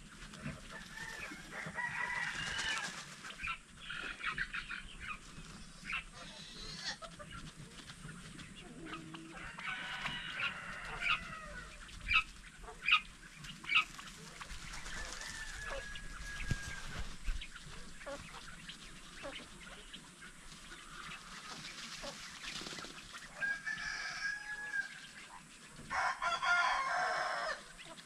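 Domestic fowl clucking and calling, with a longer crow-like call near the end. Three sharp taps come about halfway through.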